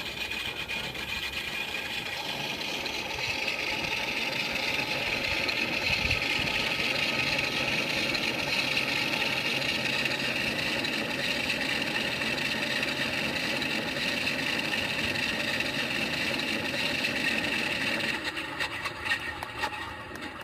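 Engine sound of a radio-controlled Sea Fury warbird model, a steady drone that grows louder over the first few seconds and holds. It drops away sharply near the end, followed by a few sharp knocks and clatter.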